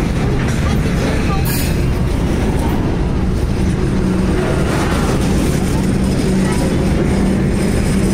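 BNSF intermodal freight train's well cars rolling past close by: a steady, loud rumble of steel wheels on rail with a steady low hum, and one sharp clack about a second and a half in.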